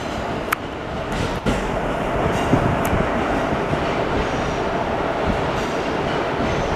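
JR Central 313 series electric train pulling out of the station, a steady running rumble with a few sharp clicks of wheels over rail joints.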